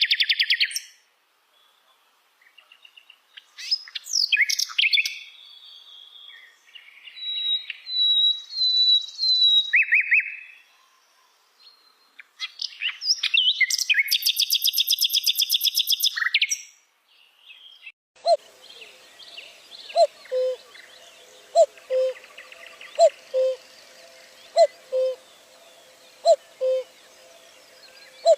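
Wild birds singing and calling: bursts of high chirps, trills and whistles. About two-thirds of the way in the scene changes to a bird repeating a low two-note falling call about every one and a half seconds, over a faint steady background.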